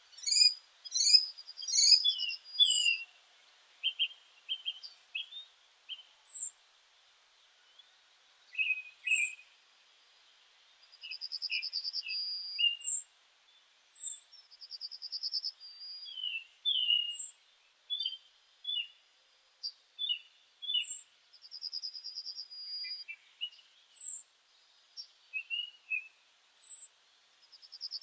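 Woodland birds singing, several at once. One repeats a thin, very high, falling note every couple of seconds. Another gives a buzzy trill about a second long, four times. Scattered shorter chirps and whistles fill the gaps.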